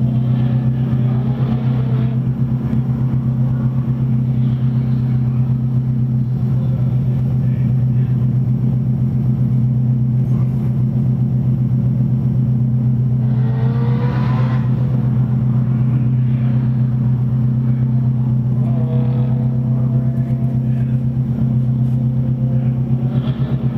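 2006 Subaru WRX's turbocharged flat-four idling at a standstill, a steady low drone heard from inside the car. About fourteen seconds in, another car's engine rises and then falls in pitch as it runs past, and a fainter one follows a few seconds later.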